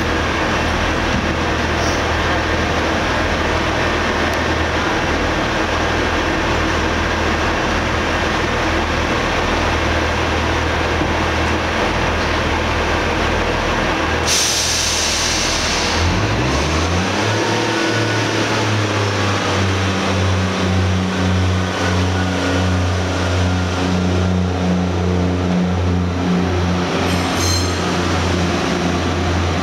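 A train standing at a station platform with its engine running steadily. About halfway through comes a short burst of air hiss, like a brake release. Then the engine note rises and holds at a higher, steady pitch, as a train does when it powers up to move.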